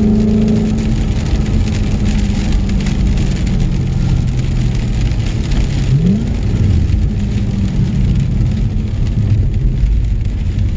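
Car driving at speed: a loud, low engine rumble under tyre and road noise. The engine's tone fades in the first second, and a short rising rev comes about six seconds in.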